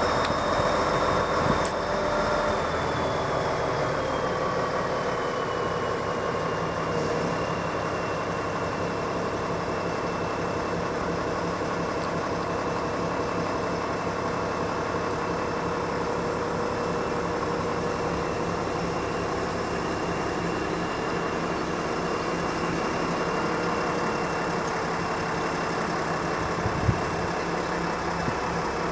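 An engine running steadily, with a high whine that drops a little in pitch over the first few seconds. A single sharp knock comes near the end.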